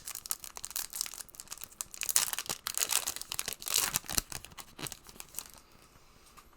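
A plastic trading-card pack wrapper being torn open and crinkled by hand: a run of crinkling rustles and sharp crackles that dies away about five and a half seconds in.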